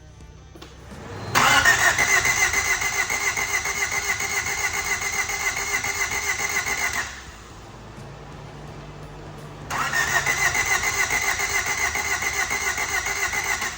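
1988 Honda CRX Si's 1.6-litre four-cylinder cranking on the starter twice, about five seconds and then about four, with even rapid pulsing, without catching despite starting fluid: the owner takes it that it has no spark or no compression.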